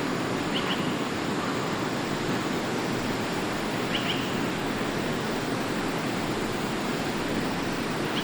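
Forest stream running with a steady rush of water. Two faint short high chirps come through it, about half a second in and again about four seconds in.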